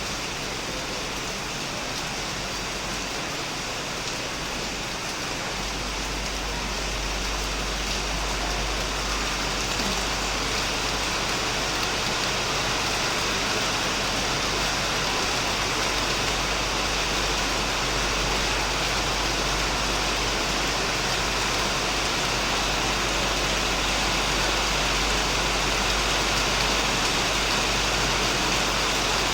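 Heavy rain falling steadily on a shed roof, a dense even hiss. From about five seconds in a steady low rumble joins underneath and the sound gets slightly louder.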